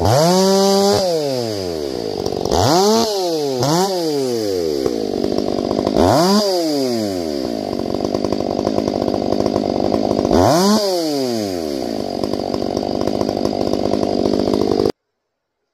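Two-stroke chainsaw revved in several short throttle bursts, each rising sharply in pitch and falling back, with steady running between. The sound cuts off abruptly near the end.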